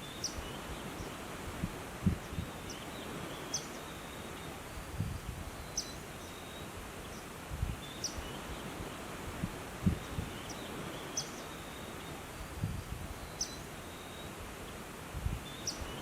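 Outdoor nature ambience: a steady background hiss with short, high chirps repeating about every two seconds, and brief low rumbles every few seconds.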